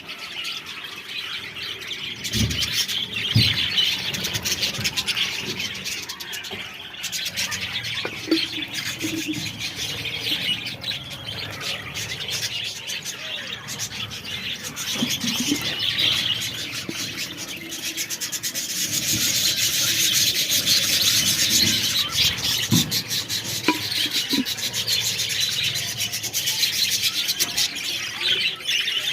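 A colony of budgerigars chattering and chirping all at once, a dense continuous twitter of many birds.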